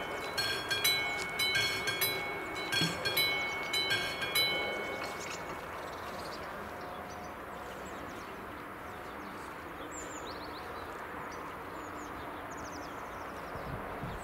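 Level-crossing warning bell of AŽD 71 crossing signals ringing in quick, evenly spaced strikes, about two a second, which stop about five seconds in. A steady rushing noise carries on after it, with faint bird chirps near the end.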